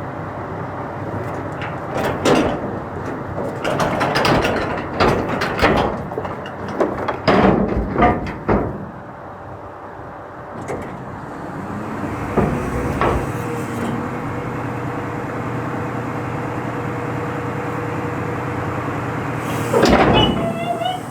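Clanking and banging around a rear-load garbage truck, a run of knocks and rattles over the first several seconds, then the truck's engine running with a steady hum and another clatter near the end.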